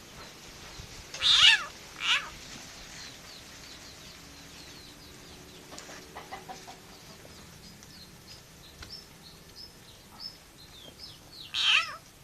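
Frog giving loud, cat-like distress screams while being eaten by a snake: three wails that slide down in pitch, two close together about a second and a half in and one near the end.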